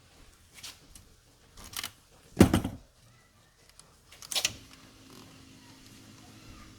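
A few knocks and clunks, the loudest a heavy thud about two and a half seconds in, followed by a faint steady hum.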